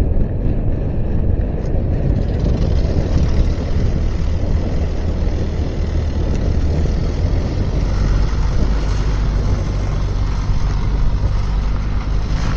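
Skid steer engine running steadily, a continuous low rumble.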